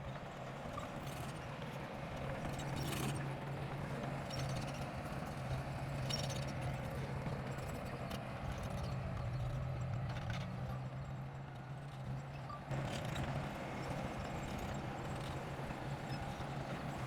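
Bulldozer's diesel engine running steadily under load, with intermittent metallic clanks and knocks from the machine working.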